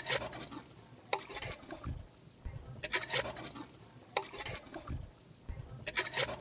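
Thick chicken masala being stirred in a large pot, the spoon scraping through it in strokes about a second apart.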